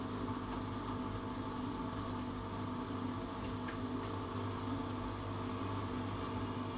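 Atlant 70C1010 front-loading washing machine running, with a steady motor hum and a faint tick or two about halfway through.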